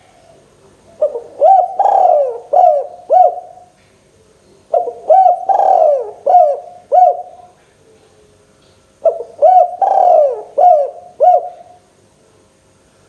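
Spotted dove (tekukur) cooing: three repeated phrases of several notes each, one about every four seconds.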